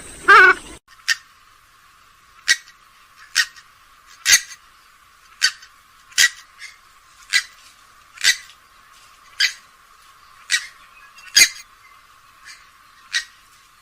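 Grey-headed swamphen calling: one loud call at the start, then a run of about a dozen short, sharp calls, roughly one a second.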